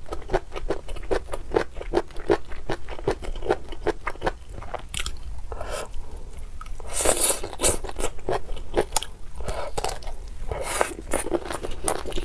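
Close-miked biting and chewing of a kelp knot: a quick run of clicks, about four a second, with louder crunchy bites near the middle and again near the end.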